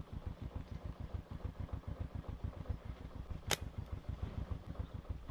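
A small engine running with a low, even putter of about ten beats a second. A single sharp click about three and a half seconds in.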